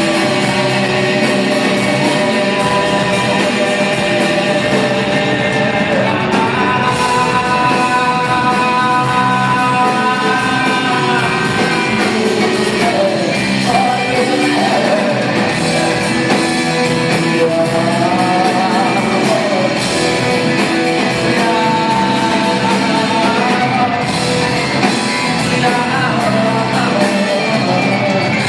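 Live rock band music led by guitar, with long held melody notes that bend up and down.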